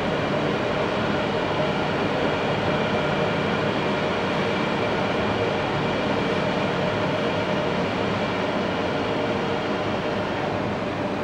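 MTR Q-Train metro train running: a steady rumble with faint steady tones over it.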